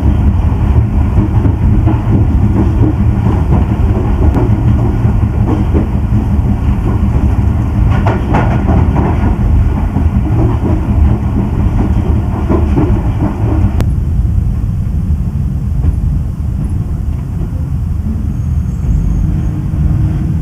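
Pakistan Express passenger train running on the track: a heavy, steady rumble with wheels clattering over the rails. About two-thirds of the way through, the higher clatter drops away and mostly the low rumble is left.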